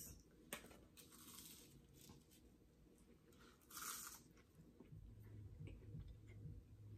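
Faint crunching and chewing of flaky puff pastry, with one louder crunch a little past halfway.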